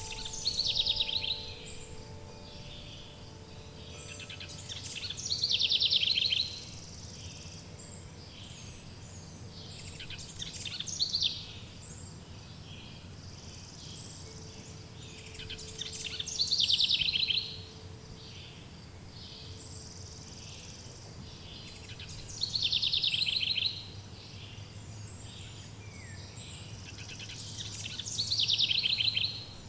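A songbird singing the same rapid trilled phrase six times, about every five to six seconds, each phrase falling in pitch, over a low steady outdoor background. Faint wind chime tones ring out and fade in the first few seconds and again around the middle.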